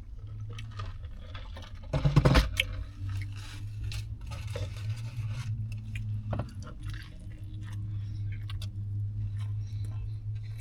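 Close-up chewing and crunching of a turkey, bacon and ranch sub sandwich, with a louder bite about two seconds in. A steady low hum runs underneath.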